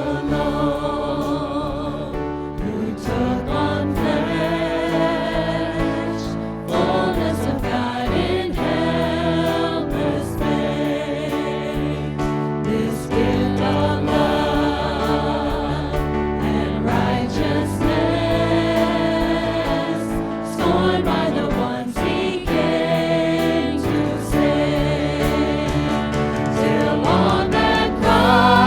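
Worship music: several voices singing a song with sustained instrumental accompaniment.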